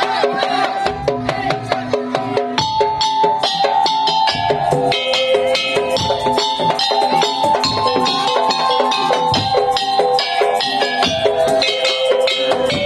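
Madurese tong-tong (daul) ensemble playing: fast, dense beats on wooden slit drums and drums under a held melody line that steps between long notes.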